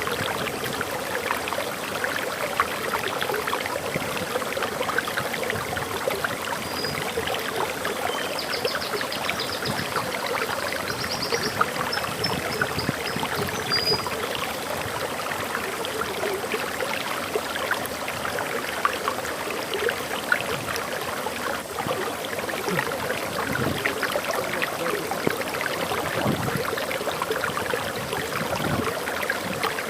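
Water of a forest waterfall flowing steadily over rocks, a constant splashing rush. A bird sings a few high, thin notes and a quick trill about a third of the way in.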